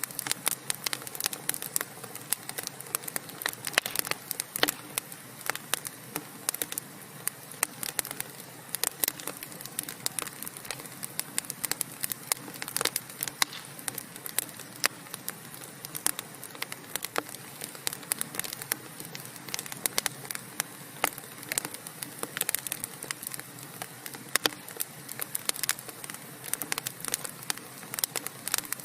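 Wood fire burning in a fireplace: dense, irregular crackling and popping of the logs over a steady hiss.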